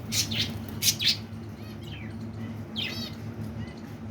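Budgerigars chirping: a cluster of short, sharp chirps in the first second and a single wavering call about three seconds in, over a low steady hum.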